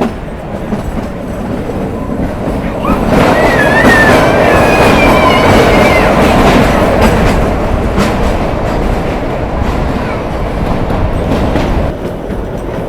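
Narrow-gauge passenger train on the Kalka–Shimla Railway running, heard from inside the coach: a steady rumble and rattle of wheels on track that grows louder about three seconds in, with a thin, wavering wheel squeal for a few seconds, then eases slightly near the end.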